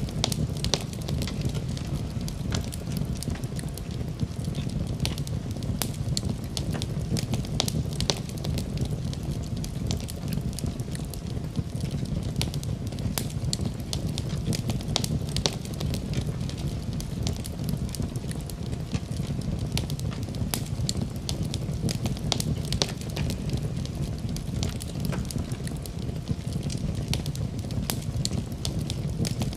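Wood fire in a fireplace, crackling with many irregular small pops over a steady low rumble of the flames.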